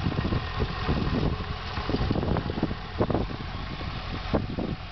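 2011 Cadillac CTS-V's supercharged 6.2-litre V8 idling steadily, with scattered short clicks and knocks over the low rumble.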